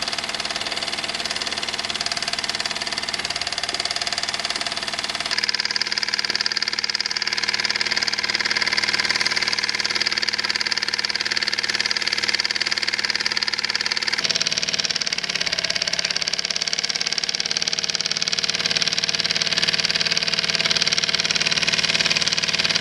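Cyldon 13-3 toy live steam engine running steadily under full steam, a fast even mechanical beat from the little engine.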